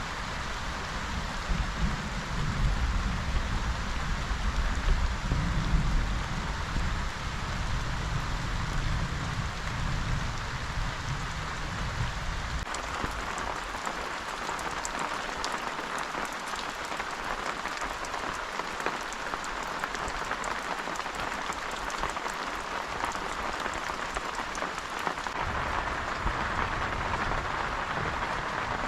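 Steady rain falling, a continuous even hiss, with a low rumble underneath that fades out about halfway through and comes back near the end.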